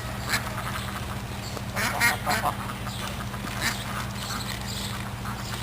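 Ducks quacking, a few short calls bunched about two seconds in and another one later, over a steady low hum.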